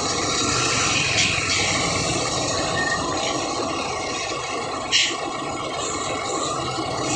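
Truck engine running steadily on an uphill climb, with a short sharp knock about five seconds in.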